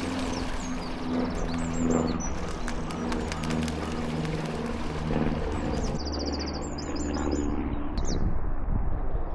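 Outdoor birdsong: small songbirds chirping and trilling, with a pigeon cooing in low, repeated notes over a steady low rumble.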